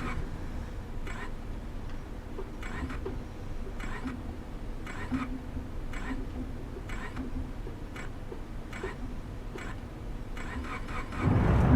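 Inside a car, a regular click sounds about once a second over a steady low rumble. Near the end a much louder low rumble sets in suddenly.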